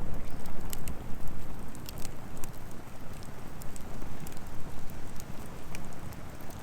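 Firewood burning in a steel fire pan, crackling with scattered sharp pops and snaps over a steady low rumble.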